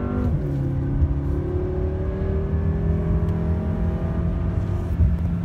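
BMW M6 Gran Coupe's twin-turbo V8 under hard acceleration, heard from inside the cabin over road and wind rumble. The engine note drops sharply just after the start with an upshift, then climbs steadily as the car pulls through the next gear.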